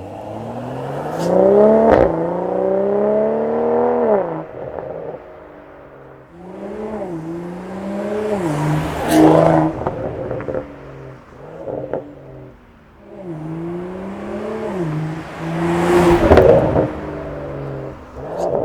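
BMW M240i xDrive's turbocharged 3.0-litre B58 inline-six, breathing through a Stone catalytic downpipe and valved catback exhaust, accelerating repeatedly. The pitch climbs and drops back several times, with a few short stretches at steady pitch and a few sharp cracks in between.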